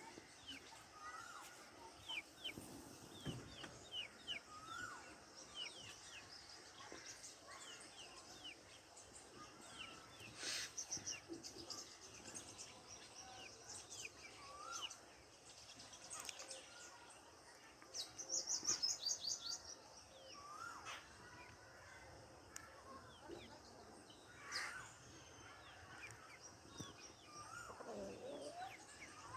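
Birds chirping: a string of short, high chirps, with a rapid high trill about a third of the way in and a louder one past the middle.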